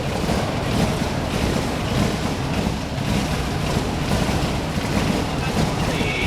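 Mitsubishi Lancer Evo VIII rally car's turbocharged four-cylinder engine idling: a steady low rumble.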